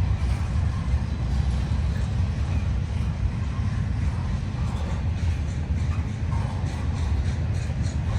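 Freight train rolling past with a steady low rumble, and faint regular clicks in the second half.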